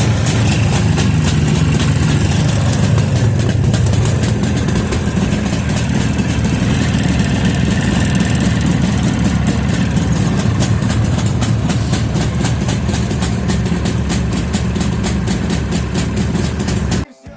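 Two-stroke motorcycle engine idling steadily after a cold winter start, then cutting off suddenly near the end.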